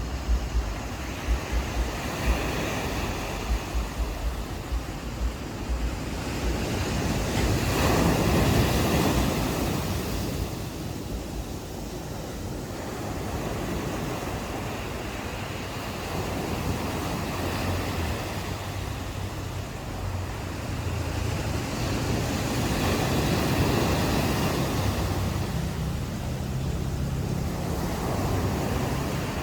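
Ocean waves washing onto the shore, swelling about eight seconds in and again around twenty-four seconds, with wind buffeting the microphone in the first few seconds.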